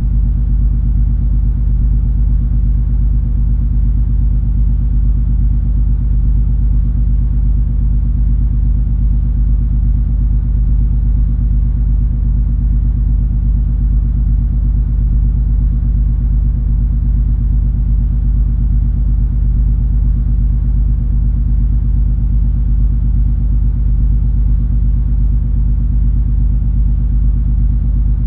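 Steady low rumble of the cruise ferry MS Color Fantasy under way, its engines giving a deep, unchanging hum with several steady low tones.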